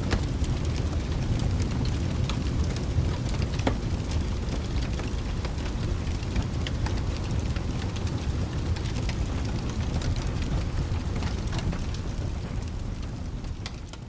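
Steady rain over a deep low rumble, with a fireplace's crackles and pops scattered through it. The whole mix fades down near the end.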